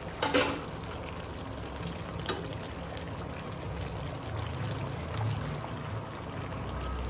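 Chicken and ghee-roast masala sizzling steadily in ghee in a pan on a medium flame, with two brief sharp sounds, one just after the start and one about two seconds in.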